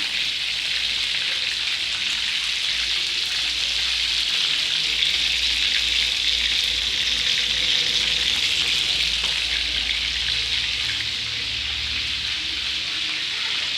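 Chicken wings frying in hot oil: a steady sizzle.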